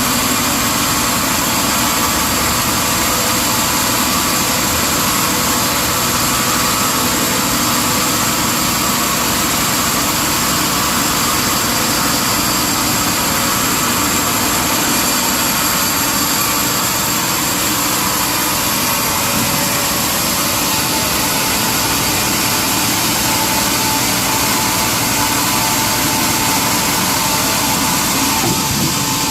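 Sawmill machinery running steadily, an even engine-like drone with a constant high whine.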